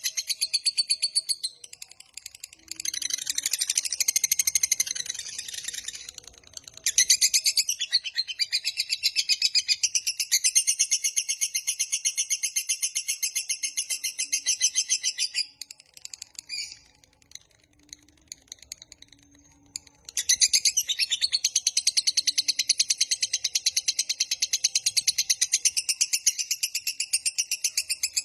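Lovebird's 'ngekek panjang': long runs of very fast, high-pitched chattering notes. It breaks off briefly about two seconds in and again for several seconds past the middle, then resumes.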